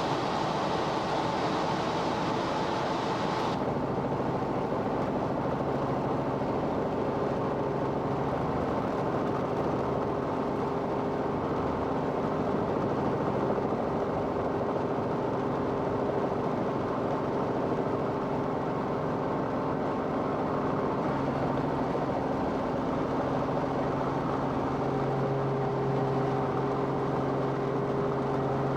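Steady engine drone of an aircraft heard from inside the cabin, with a hiss over it for the first few seconds that cuts off suddenly.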